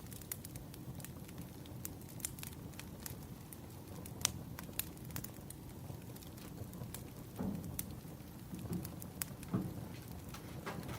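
Wood fire burning: a steady low rush of flames with scattered sharp crackles and pops from the burning logs, and a few duller knocks about two-thirds of the way through.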